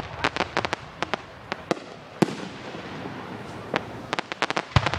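Fireworks display: sharp cracks and bangs from bursting aerial shells. A rapid cluster comes in the first second, then scattered single cracks with one loud bang a little over two seconds in. After a lull, another rapid cluster comes near the end.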